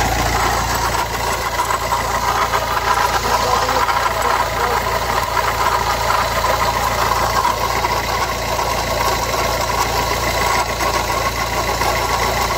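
Car engine idling steadily with a continuous whirring, knocking noise from the front of the engine: the sign of a failing water pump.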